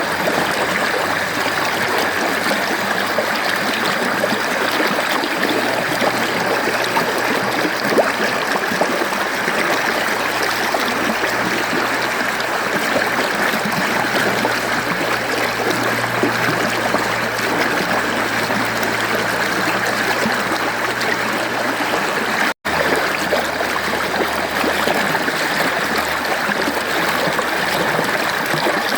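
Mountain stream water flowing over rocks: a steady rush with a trickle to it. About two-thirds of the way through it drops out for a split second, then carries on unchanged.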